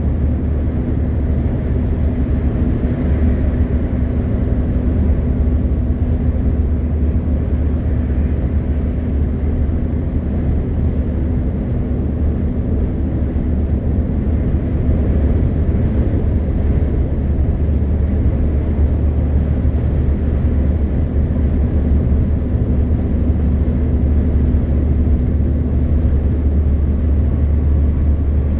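MAN TGX 520 truck's straight-six diesel engine running at a steady cruise, a steady low drone mixed with road and tyre noise.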